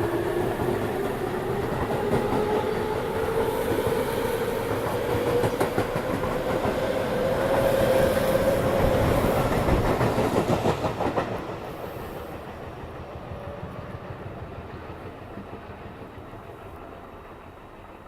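Tobu 9050 series electric train accelerating away, its inverter-controlled traction motors giving a whine that rises steadily in pitch. Wheels clack over rail joints about ten seconds in, then the sound fades as the train moves off.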